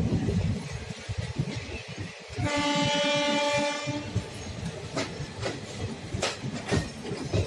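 Train rolling through a rail yard, its wheels clattering and clanking over the rail joints. About two and a half seconds in, a locomotive horn sounds one steady blast of about a second and a half.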